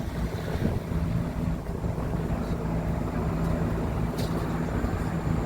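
A steady low engine hum, holding one pitch, with a faint click about four seconds in.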